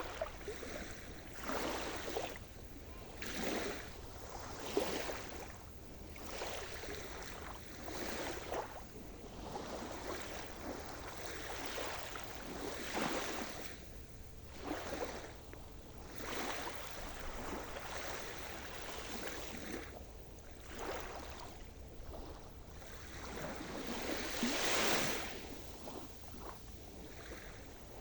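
Sea surf: waves breaking and washing on the shore, a noisy hiss that swells and ebbs every second or two, with the biggest wash about 25 seconds in.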